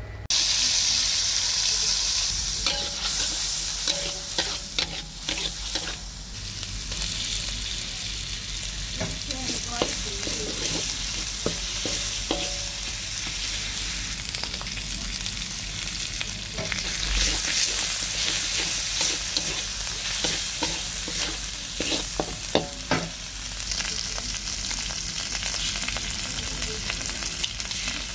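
Ground spice paste of chili, shallot and garlic sizzling in hot oil in a steel wok, stirred with a metal spatula that scrapes and knocks against the pan now and then.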